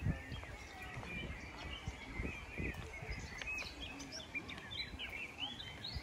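Small birds chirping and twittering, with many quick high calls that grow busier over the second half. Low thumps sound underneath.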